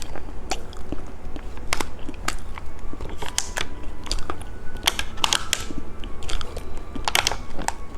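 Candy being bitten and chewed close to the microphone, with irregular crisp clicks and crunches.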